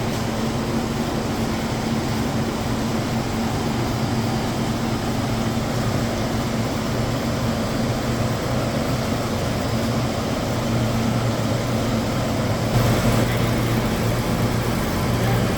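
Factory machinery running with a steady low hum and noise. The sound changes slightly about thirteen seconds in.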